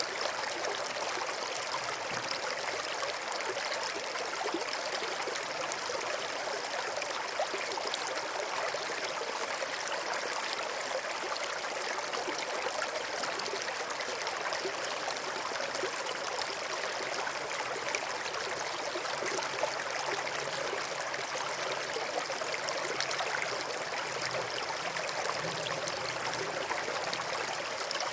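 A small stream flowing and trickling over stones, a steady, even babble of running water.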